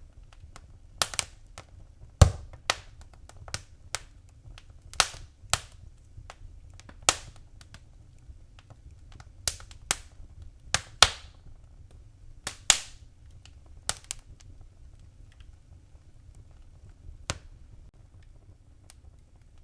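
Wood fire crackling in a fireplace: irregular sharp pops and snaps from the burning logs over a low, steady rumble of flame. The pops come thickly for the first dozen seconds and then thin out. The loudest comes about two seconds in.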